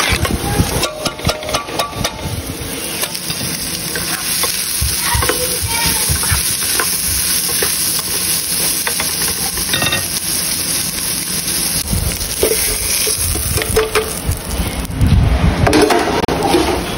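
A spoon clatters and stirs baked beans against a metal pot for the first couple of seconds. Then comes a steady sizzle of sliced hot dogs frying in a nonstick pan, turned with a spatula, with louder knocks of handling near the end.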